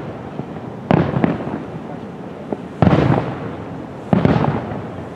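Aerial firework shells bursting in a display finale: three sharp booms, about one, three and four seconds in, each trailing off over about a second.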